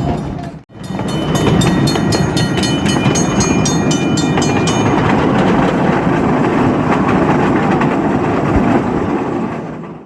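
12-inch gauge live steam train rolling along the track, its wheels clicking rhythmically over the rail joints, with high thin ringing tones in the first half. The sound cuts out for an instant just under a second in and fades near the end.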